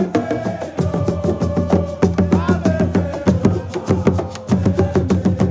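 Fast, dense hand drumming, typical of Senegalese sabar drums at a wrestling celebration, with a voice holding one long note over the beat.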